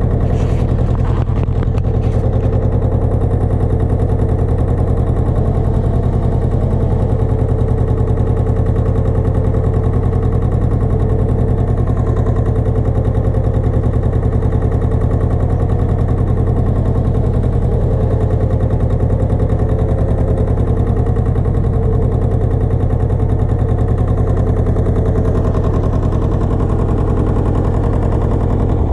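Pasquali 980 EX two-wheel tractor's engine running steadily with an even rapid pulse while it drives a rotovator.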